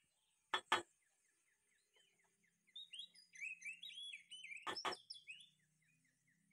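Small birds chirping, a run of short repeated falling calls, with two quick pairs of sharp knocks, about half a second in and near five seconds.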